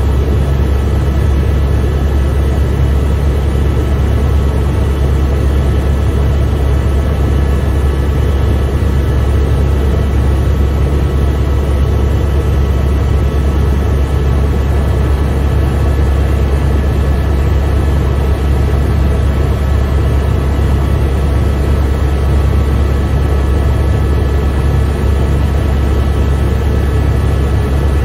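Helicopter in flight heard from inside the cabin: a loud, steady low drone of the rotor with several thin steady high tones of whine above it.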